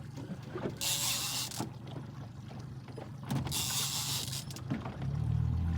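Fishing reel buzzing in two bursts of just under a second each, about a second in and again after three seconds, as the reel works against a hooked fish. A low hum comes in near the end.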